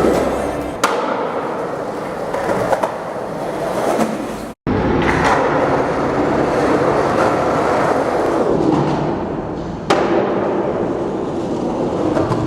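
Skateboard wheels rolling over pavement with a steady grinding roll, broken by two sharp clacks of the board striking the ground, one about a second in and one later on.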